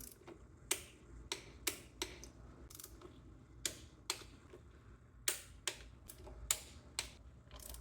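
Torque wrench ratcheting in sharp, separate clicks, about fifteen of them at an uneven pace, as the valve cover bolts are tightened to 84 inch-pounds.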